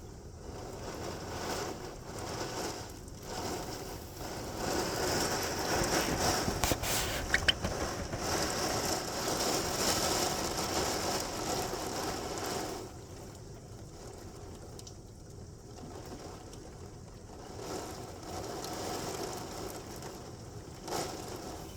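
Heavy rain falling, a steady hiss that swells louder for several seconds in the middle, with a few sharp clicks about seven seconds in.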